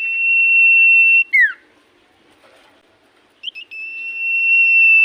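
Common iora (cipoh) singing: a long, steady, high whistle held for about a second, ending in a quick downward-sliding note. The phrase is given twice, the second time led in by a couple of short chirps.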